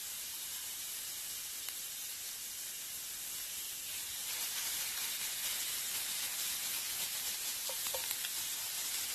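Food sizzling in a frying pan over a campfire, a steady hiss with fine crackle that grows a little louder about four seconds in.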